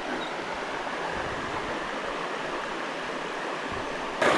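Mountain valley stream rushing steadily, with a brief sharp noise near the end.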